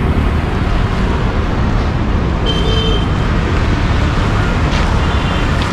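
Steady road traffic running past, a dense low rumble, with a short high-pitched tone about two and a half seconds in.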